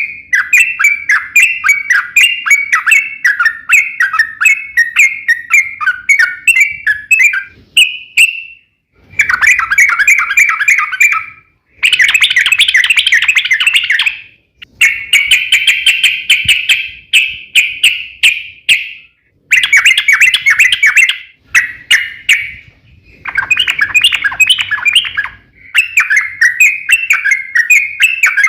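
Yellow-vented bulbul (trucukan) singing long, rapid runs of chattering, bubbling notes. The runs come in bouts of a few seconds with brief pauses between them.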